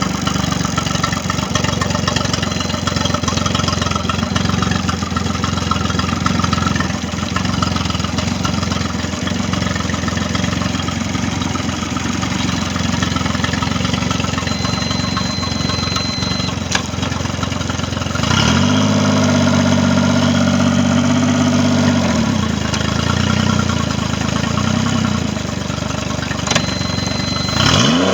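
Mercury 25 hp outboard motor running steadily at idle, revved up for a few seconds about two-thirds of the way through and then settling back, with another rev rising at the very end. The motor is running after its no-start problem.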